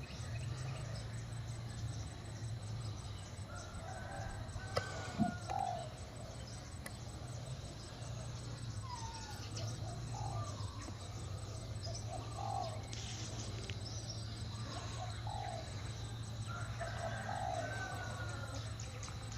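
Short bird calls repeated every second or two over a steady low hum, with a single sharp knock about five seconds in.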